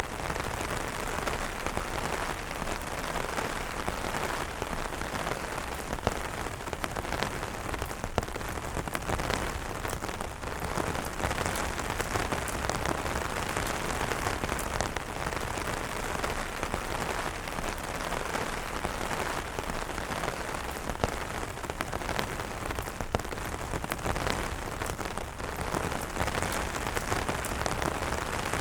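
Steady rain falling on umbrellas, a constant hiss with many separate drop hits scattered through it.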